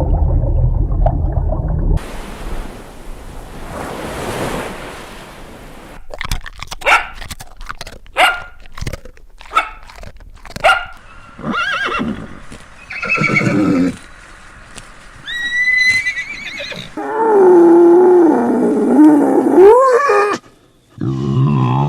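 A string of different animal calls edited one after another: a low rumble at the start, a run of short calls, and a long loud pitched call that bends up and down near the end.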